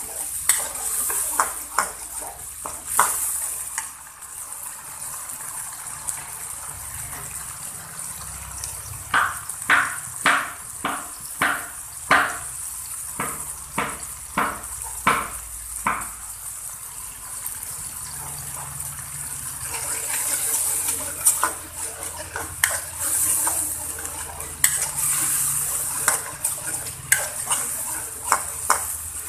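Ground chili and shallot spice paste sizzling in hot oil in a wok while a metal spatula scrapes and knocks against the pan as it is stirred. In the middle comes a run of a dozen or so steady, even strokes.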